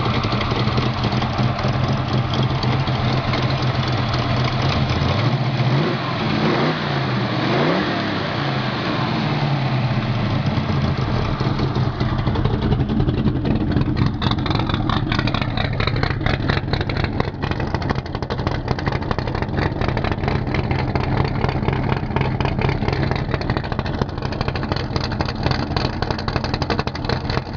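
1970 Ford Mustang Boss 302 race car's V8 running. It is revved up and back down once, about six to eight seconds in, then settles into a steady, pulsing idle.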